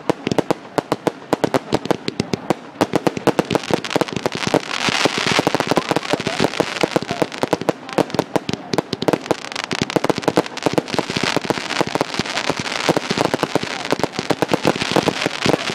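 Fireworks display: dense, rapid cracks and bangs of exploding shells, with a continuous crackling that thickens a few seconds in and stays busy.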